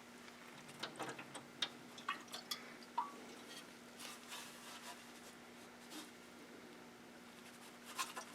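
Faint, scattered clicks and light taps of small plastic lawn-mower carburetor and fuel-tank parts being handled, over a steady low hum.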